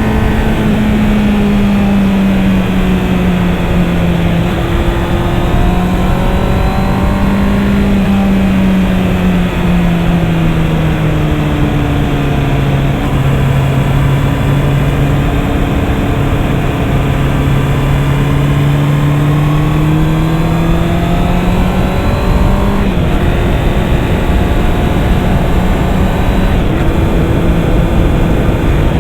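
Honda CB650R's inline-four engine running under way, its pitch sinking slowly and then rising again as the bike slows and picks up speed, with a quick change in pitch about 23 seconds in. Steady wind rush is heard under the engine throughout.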